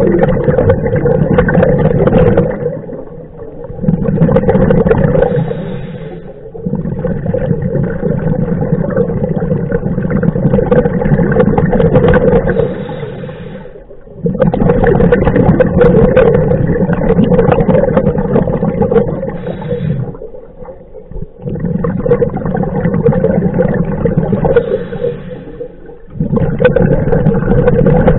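A scuba diver breathing through a regulator underwater: loud rumbling bursts of exhaled bubbles lasting several seconds each, broken by short quieter pauses between breaths.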